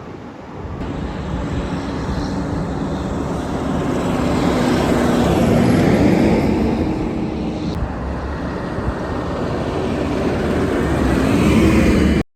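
A vehicle engine running and passing, growing louder to a peak about halfway through, easing off, then rising in pitch and loudness again near the end.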